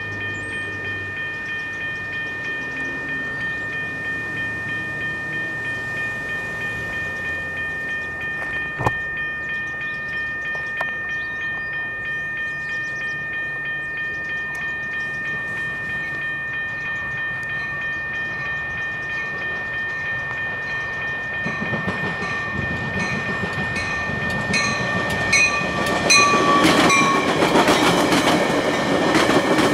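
A railroad crossing bell rings steadily as a Metra commuter train approaches. From about 22 seconds in, the bilevel gallery cars pass close by, with rising wheel-on-rail rumble and clickety-clack over the rail joints.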